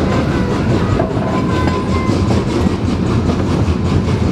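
Puffing Billy narrow-gauge passenger train running, heard from aboard a coach: a steady, loud rumble of wheels on rails, with a faint thin high squeal in the first couple of seconds.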